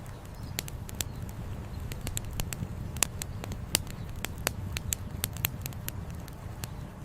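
Wood campfire crackling: irregular sharp pops and snaps, several a second, a few louder than the rest, over a low steady rumble.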